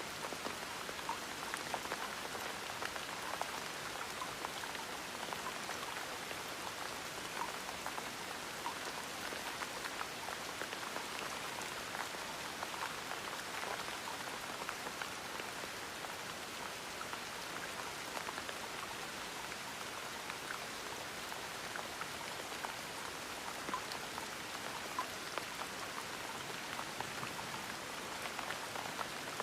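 Gentle rain falling steadily, an even hiss with many small drop ticks scattered through it.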